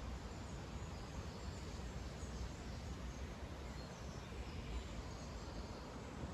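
Outdoor woodland ambience: a steady low background hiss and rumble with a few faint, distant bird calls.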